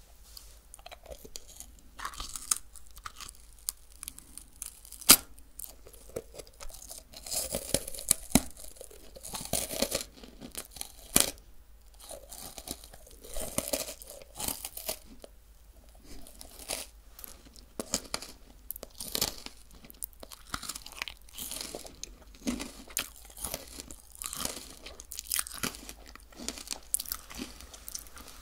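Close-miked chewing of crunchy sweets: an irregular run of crisp crunches and crackles, with one sharp, loud crunch about five seconds in.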